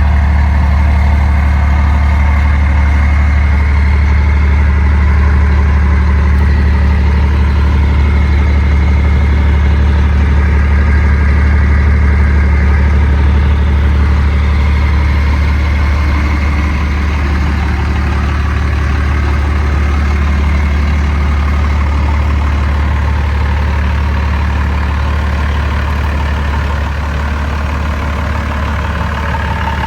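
1992 Dodge Ram D250's 12-valve Cummins 5.9-litre inline-six turbo diesel idling steadily.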